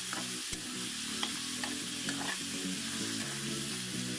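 Diced pork with garlic and onion frying in a pan with a steady sizzle, while a metal spatula stirs it, scraping and tapping against the pan a few times in the first half.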